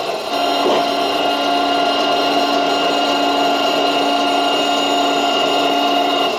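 Small electric motor running with a steady whine that holds one pitch, broken only by a brief dip at the very start.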